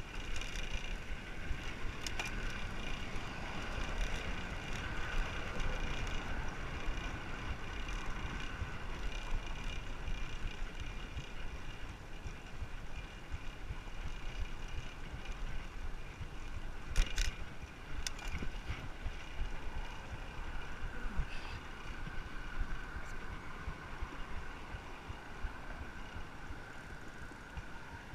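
Wind rushing over the microphone and tyre noise from a bicycle on the move, with one sharp click a little past the middle.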